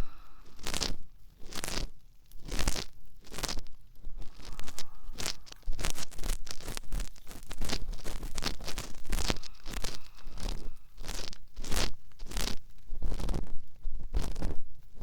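Ear cleaning on a binaural dummy-head microphone's ear: a tool rubs and scrapes inside the ear in repeated short strokes, about one or two a second, with rasping and crackling close to the ear.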